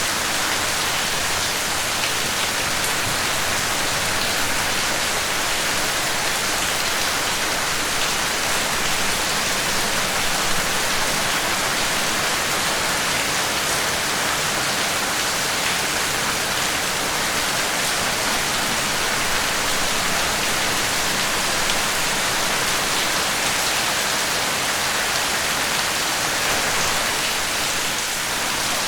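Steady rain falling, a dense even hiss with fine drops pattering on a surface.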